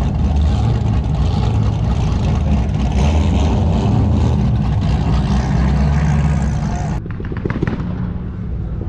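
Car engine running with a steady low rumble. About seven seconds in the sound changes abruptly and turns duller and slightly quieter.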